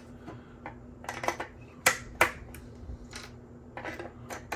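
3D-printed plastic support material snapping and clicking as it is broken and clipped off a printed helmet: a run of irregular sharp clicks, the two loudest about two seconds in, over a faint steady hum.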